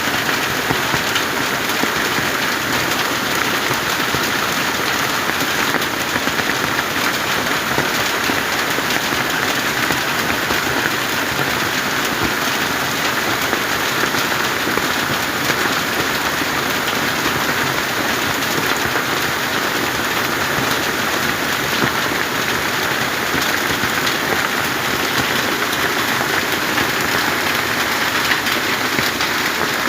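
Steady, loud rush of falling water, an even hiss with no let-up.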